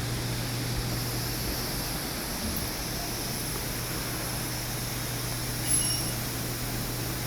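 Supercharged Range Rover engine running steadily with no change in speed, with a brief high squeak about six seconds in.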